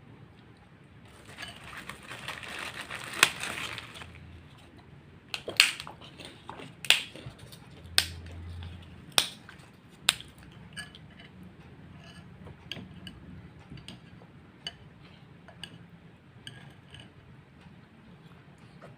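Eating noodle soup: a couple of seconds of slurping and chewing noise, then six loud sharp clinks of utensils against the bowl over the next several seconds, followed by softer taps.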